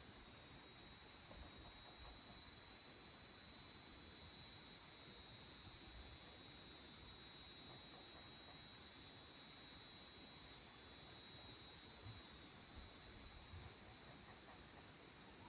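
Chorus of insects at dusk: a high, steady trill that swells over the first few seconds and fades again near the end.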